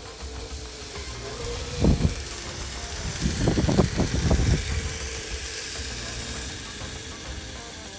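Electric RC snow vehicle running on its 3D-printed tracks with a steady hiss. A hard knock comes about two seconds in, then a quick cluster of knocks a second or so later.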